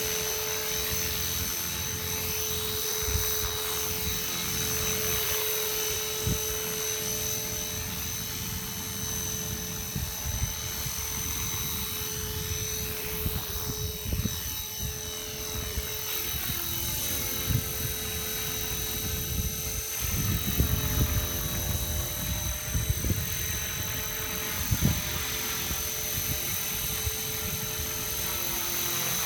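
Radio-controlled model helicopter flying, its motor and rotor blades giving a steady high-pitched whine and whir, with a slow whooshing sweep in the sound as it moves nearer and farther. A few short knocks come in the second half.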